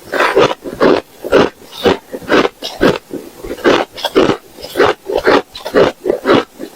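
Close-miked chewing of hard ice: loud crunches that come about twice a second.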